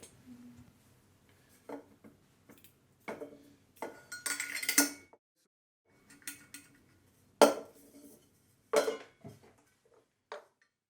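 Metal clinks and knocks, about eight separate strikes with a short ring after each and a small cluster near the middle, as a stainless steel water bottle and its bent wire hanger are handled.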